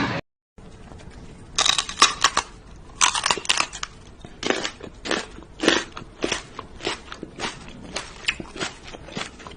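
An animal chewing something crunchy: sharp crunches in quick clusters at first, then settling to about one or two bites a second.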